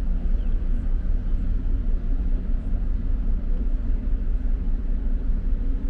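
Steady low rumble of a ship's engines with a deep, even hum underneath.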